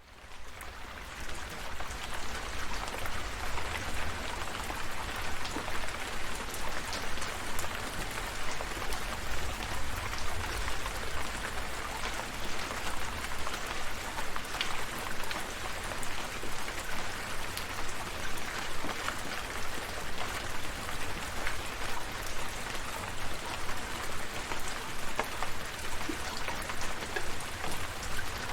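Steady rain falling: a dense hiss of drops with many single drops ticking through it, over a low rumble. It fades in over about the first second.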